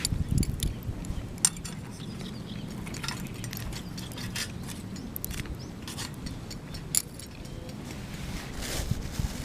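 Scattered light metallic clicks and clinks, as of camp cooking gear being handled, with sharper clicks about a second and a half in and near seven seconds. A steady low rumble, like wind on the microphone, runs underneath.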